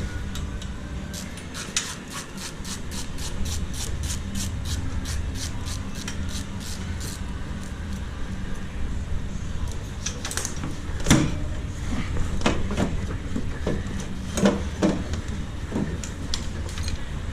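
Hand-tool work during an engine removal: a fast, even run of clicks, about four a second for several seconds, like a ratchet being worked, then scattered metallic knocks and clanks over a steady low hum.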